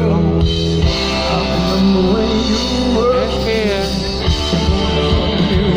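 Live amplified rock music with a singer and band, heard over a PA system.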